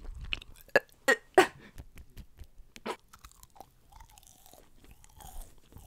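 A person biting into and chewing a piece of McDonald's fried food, with a few sharp, crunchy clicks in the first second and a half, then quieter chewing.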